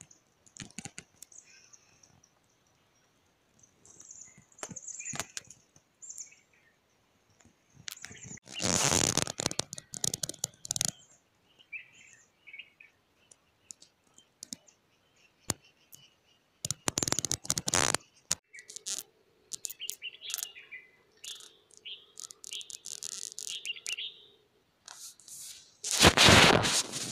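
Small birds chirping and tweeting in short high calls, broken three times by loud spells of rustling noise lasting a second or more each. A faint steady hum runs through the later part.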